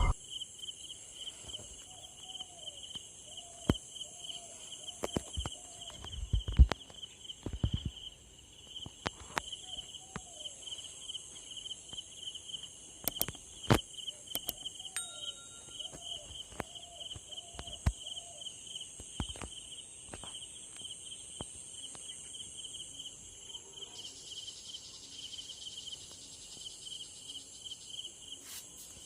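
Insects, likely crickets, chirping in a steady fast trill over a high insect hiss. Scattered sharp clicks and a few dull low knocks are mixed in, along with short runs of small falling calls in the first half.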